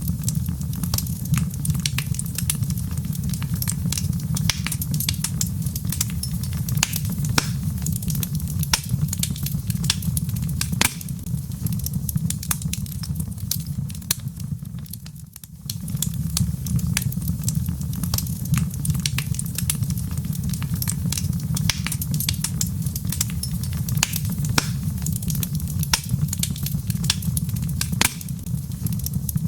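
Wood fire crackling in a fireplace: frequent sharp pops and snaps over a steady low rumble. The sound dips briefly about halfway through, then carries on.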